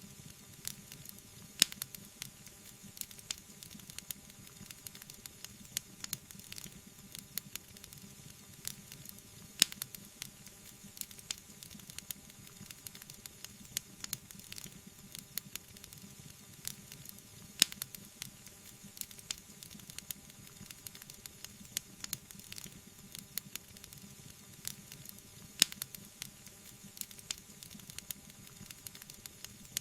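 Wood fire burning in a fireplace, crackling steadily with a dense run of small pops over a soft hiss and a sharper, louder pop about every eight seconds.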